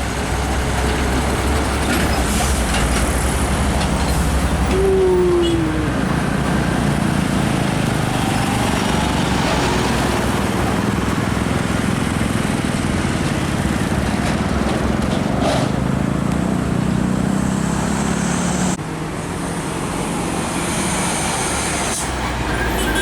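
Heavy road traffic: diesel trucks driving past close by, engines and tyre noise running steadily, with a brief falling tone about five seconds in. The sound drops abruptly about nineteen seconds in.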